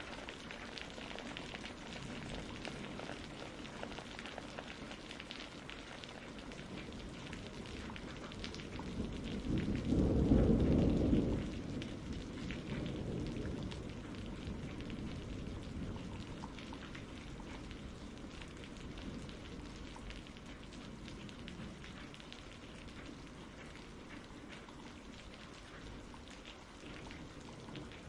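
Steady rain falling, with fine drop patter, and a low roll of thunder about ten seconds in that fades over a few seconds.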